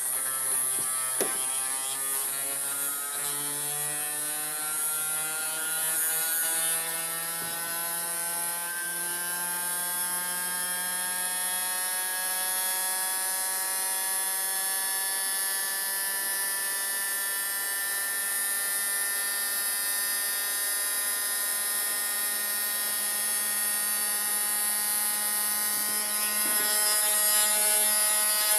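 Hand-twisted gyroscope's spinning rotor whirring, a steady pitched hum with many overtones over a high hiss. Its pitch climbs over roughly the first ten seconds, then holds steady. There is a small click about a second in.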